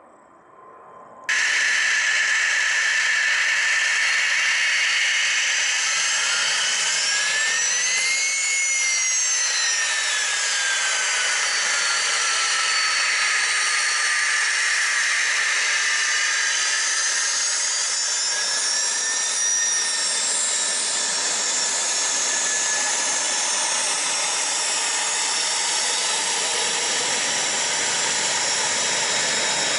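Business jet's turbofan engines running loud and steady at close range, starting abruptly about a second in. A high whine rises and falls back twice as the engine note shifts.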